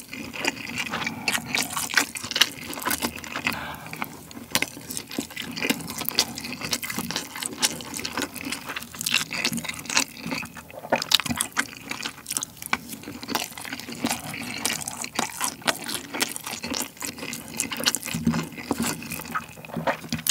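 Close-miked wet chewing and mouth sounds of someone eating rice mixed with fried Spam cubes in a sticky sauce, a dense irregular run of smacks and crackles. Light clicks of a wooden spoon and chopsticks in the bowl come in among them.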